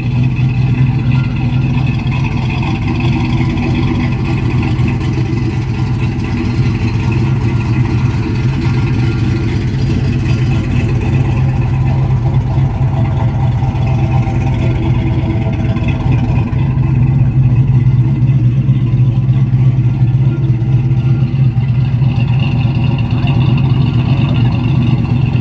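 Car engine idling steadily, a low even hum that gets slightly louder about two-thirds of the way through.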